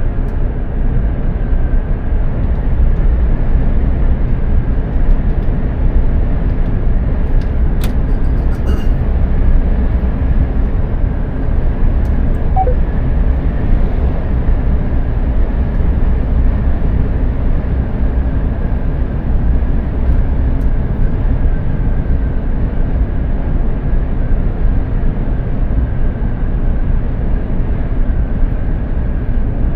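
Mercedes-Benz Actros 2763 heavy truck driving: a steady low engine and road rumble with a faint steady whine. A couple of faint clicks come about eight seconds in.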